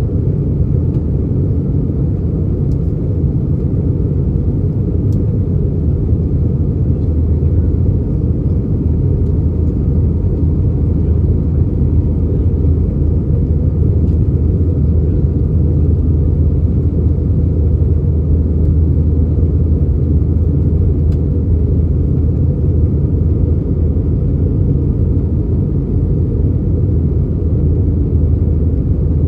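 Steady, loud low rumble inside an Airbus A319 passenger cabin in flight: engine and airflow noise heard from a window seat as the airliner descends.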